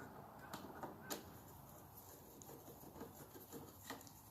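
Faint scattered clicks and light metal taps of 10 mm nuts and a hand tool being handled while fitting the carburetor assembly on a small Honda engine.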